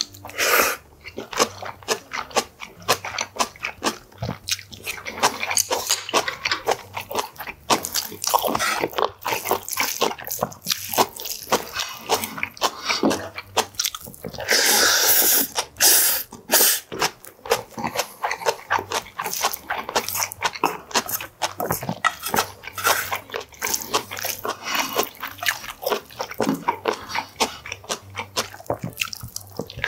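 Close-up eating sounds of a man chewing a mouthful of sea cucumber bibimbap: wet, sticky smacking and quick clicks of the mouth, with a louder stretch of noisy chewing about halfway through.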